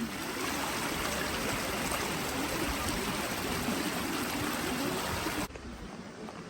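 Running water: a steady rush like a small stream, cutting off suddenly about five and a half seconds in.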